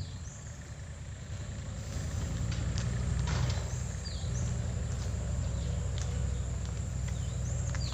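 Wind rumbling on a handheld phone microphone during a walk, a steady low rumble that grows louder about two seconds in. A few faint high chirps, likely birds, come and go.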